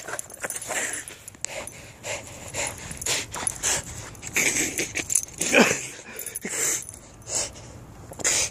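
Dog snorting and wheezing in short, irregular breaths, with one louder, lower sound about five and a half seconds in.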